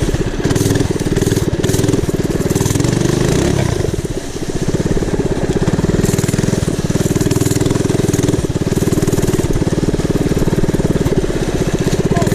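Mini bike's 212cc single-cylinder engine running hard under throttle, easing off briefly about four seconds in and then picking back up, with the rear tyre churning through dry leaves.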